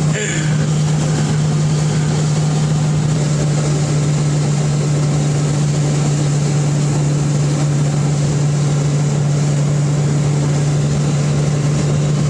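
A classic car's engine droning at one steady pitch while cruising at constant motorway speed, heard from inside the cabin with road and wind noise.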